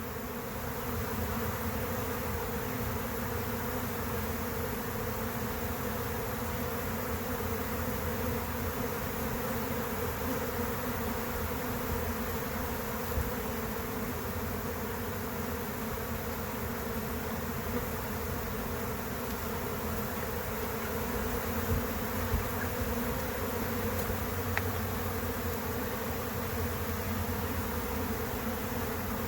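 Steady, dense buzzing hum of a large honey bee swarm leaving the hive and flying up into the air.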